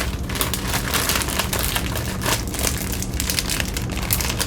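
Crinkling packaging and many small, irregular taps and clicks as cookies are handled and sorted, over a steady low hum.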